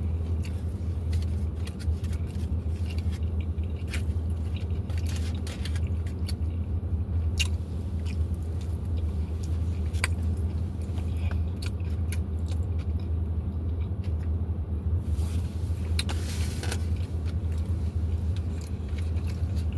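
Close-up chewing and mouth clicks over a steady low hum, with a brief rustle about sixteen seconds in.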